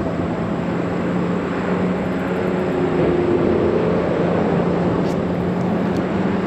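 Steady noise of highway traffic, with a low engine hum running through it.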